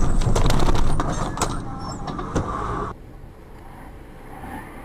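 Road vehicle noise recorded by a dashcam: loud and rough, with many sharp clicks and knocks, then dropping suddenly to a quieter steady hum about three seconds in.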